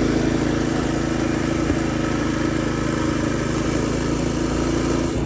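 Mini bike's Predator 212 single-cylinder four-stroke engine idling steadily.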